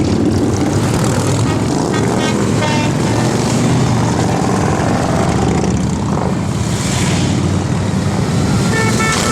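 A group of motorcycle engines running together, a steady loud rumble with no break.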